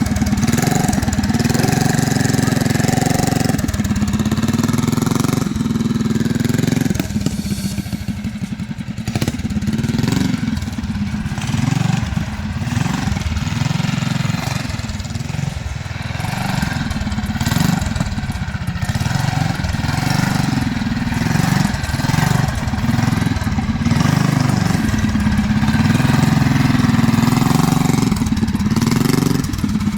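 Harbor Freight Predator 212 Ghost single-cylinder four-stroke engine on a mini bike being ridden. Its pitch and loudness rise and fall with the throttle, quieter for a while in the first half and louder again near the end.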